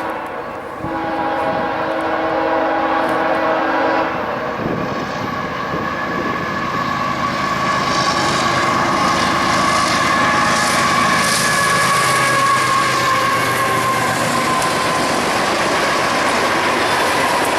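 A freight train's locomotive horn sounds a steady chord that cuts off about four seconds in. The train then rolls past with wheels clattering over the rail, and a high steady whine comes in and out.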